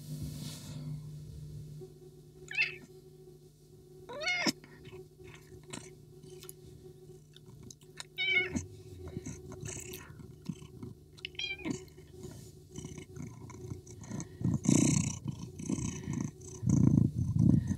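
Kitten meowing: four short, high, rising meows spread over the clip, over a steady low hum, with bursts of rustling noise near the end.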